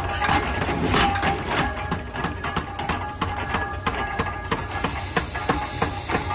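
Repeated hammer blows on metal in forging, roughly three a second, over a steady machine hum. A hiss comes in about four and a half seconds in.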